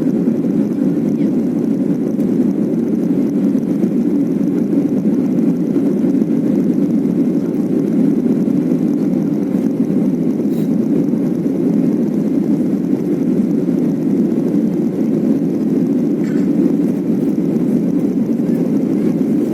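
Lion Air Boeing 737 taking off: the steady low rumble of jet engines and airflow heard inside the passenger cabin, unchanging in pitch and level.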